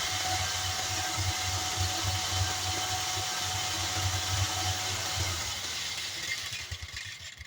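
Homemade belt sander driven by a washing-machine motor, running steadily with a pulsing low hum, then dying away near the end.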